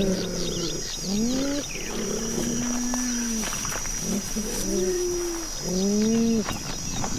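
Big-cat calls assembled from cheetah, leopard and cougar recordings: a run of about six pitched, wavering calls, each up to about a second long, separated by short gaps.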